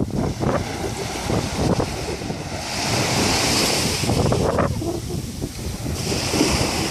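Sea surf washing onto the beach, with strong wind buffeting the microphone. The hiss of a breaking wave swells about three seconds in and again near the end.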